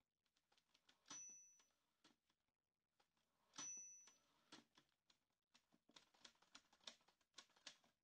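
Faint quick clicks and taps in irregular runs. Two louder clicks, about a second in and about three and a half seconds in, each leave a short high ringing tone.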